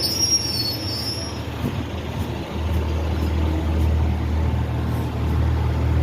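Railway train: a high-pitched wheel or brake squeal that fades out in the first second and a half, then a steady low hum of the train comes in about two and a half seconds in.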